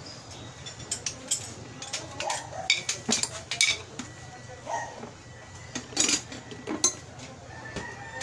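Metal tools and parts clinking and knocking irregularly, about ten sharp clinks spread over several seconds, over a faint steady low hum.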